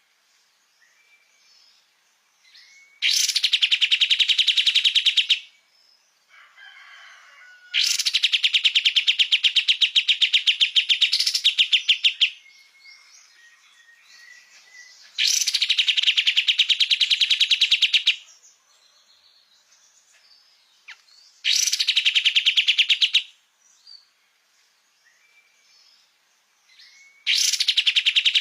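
Kapas tembak bird in full song: five long, very rapid rattling trills of two to four seconds each, repeated every few seconds, with soft short whistled notes in the gaps.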